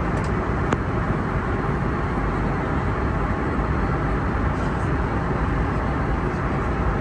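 Steady cabin noise inside an Airbus A321neo in flight: an even rush of airflow and engine noise, heaviest in the low range, with a faint click under a second in.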